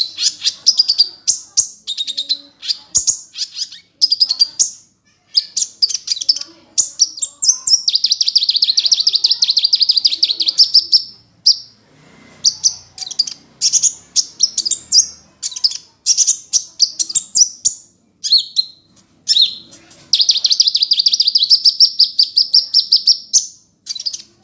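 Songbird singing a fast, high-pitched song of short chirping phrases, broken by two long trills of about three seconds each, one about seven seconds in and one about twenty seconds in.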